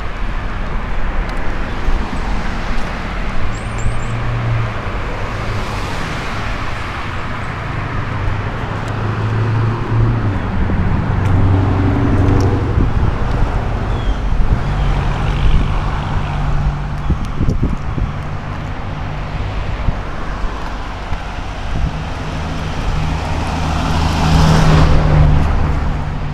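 Road traffic: cars passing one after another, with engine and tyre noise rising and fading. One vehicle passes louder about twenty-four seconds in.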